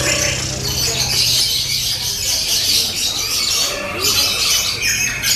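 Many lovebirds chattering and trilling at once in dense, continuous high squawky song, over a steady low hum.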